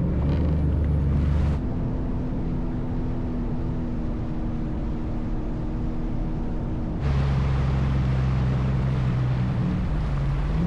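A Sea-Doo jet ski's engine running at a steady pace with a low hum. Its tone shifts abruptly about one and a half seconds in and again about seven seconds in, with more hiss from water and wind after the second change.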